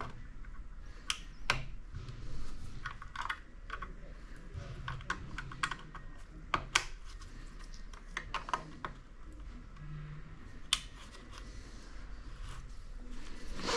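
Irregular light clicks and taps, a dozen or so at uneven intervals, over a faint low steady hum.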